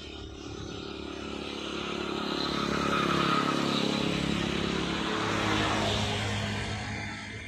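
A motor vehicle passing by, its engine and road noise rising, loudest in the middle, then fading away.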